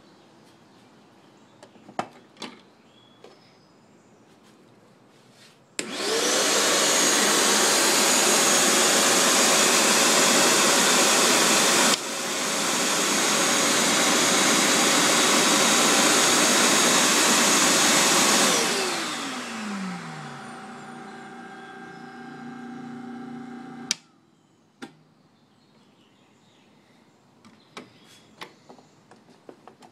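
Garbage-disposal glass grinder running to crush glass into frit: the motor starts about six seconds in and runs loud and hissy with a steady whine for about twelve seconds, dipping briefly near the middle. It is then switched off and winds down with a falling pitch, rattling more quietly until it stops abruptly with a click; a few small clicks and knocks come before and after.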